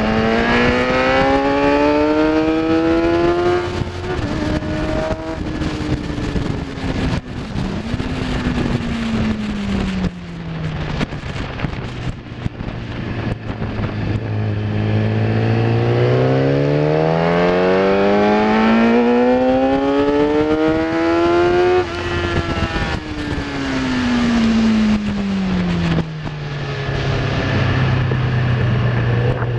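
Kawasaki ZX-10R inline-four engine accelerating hard, rising in pitch, then falling away as the bike slows, twice, with a stretch of low steady running between and at the end.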